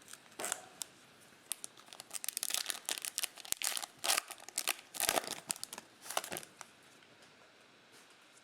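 Crinkling and tearing of a plastic trading-card pack wrapper being handled and opened: a dense run of sharp crackles that stops about six and a half seconds in.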